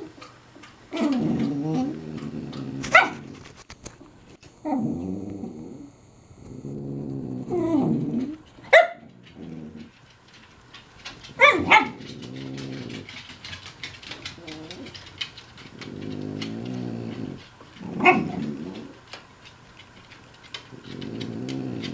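French bulldog snoring in long, rhythmic breaths, with another dog's short high whines and yelps breaking in several times: a begging, attention-seeking cry.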